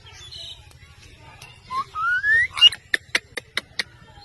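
Parrot whistling a single rising note, then giving a quick run of about seven sharp clicks.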